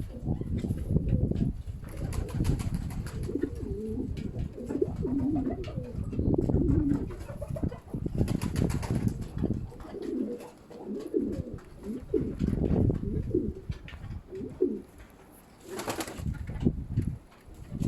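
Baku fighting pigeons cooing repeatedly, low warbling calls, over a low rumble of wind on the microphone.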